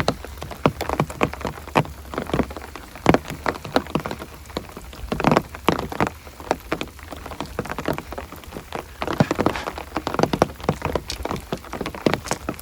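Rain falling, with large drops striking a surface close by in an irregular patter of sharp taps of uneven loudness over a steady wash of rain.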